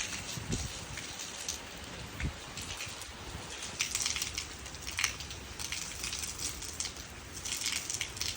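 Steady rain falling, with scattered louder drops pattering and splashing, and a couple of soft low thumps in the first few seconds.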